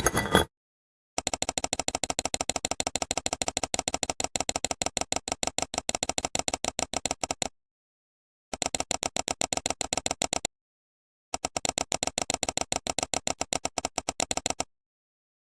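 A rapid, even clicking rattle in three long runs broken by stretches of dead silence, after a short burst at the very start.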